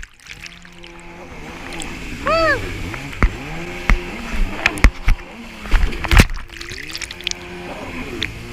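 Stand-up jet ski engine revving up and down repeatedly under the rider's throttle, with sharp knocks and splashes of the hull against water scattered through it.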